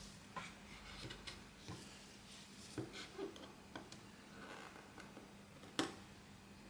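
Faint, scattered small clicks and taps from hands and small repair tools handling a smartphone during disassembly, with one sharper click about six seconds in. A faint steady hum runs underneath.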